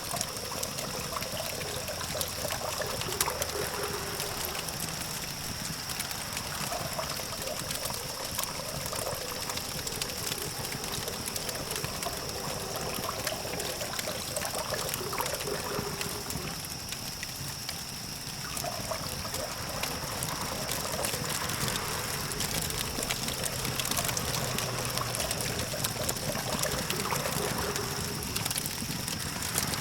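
Wood campfire crackling, with frequent small pops and snaps over a steady rushing hiss of the flames. A low hum of distant traffic lies underneath, and a steady high-pitched thin tone runs alongside.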